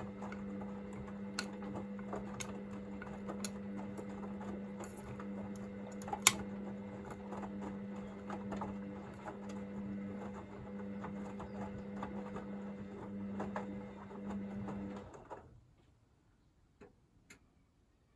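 Hoover VisionDynamic washing machine turning its drum during the 40 °C heating wash: a steady motor hum with light clicks and knocks from the tumbling load, and one sharper knock about six seconds in. The motor stops about fifteen seconds in and the drum falls still.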